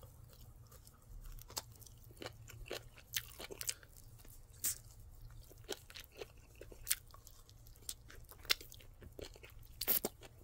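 A person chewing a bite of crispy air-fried chicken wing, with irregular sharp crunches.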